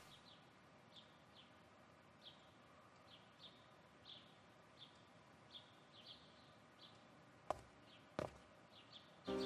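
Faint small-bird chirps, short high notes coming singly or in pairs every half second to a second, over quiet room tone. Two short knocks sound near the end.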